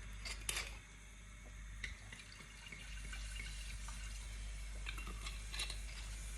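Red wine being poured into a saucepan of pan juices and flour: a steady liquid pour, with a couple of light clinks near the start.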